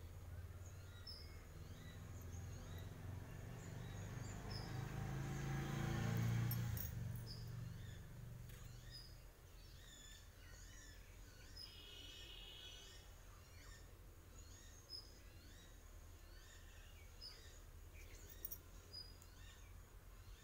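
Small birds chirping repeatedly in the background, short high calls scattered throughout. In the first half a low rumble swells and fades over several seconds.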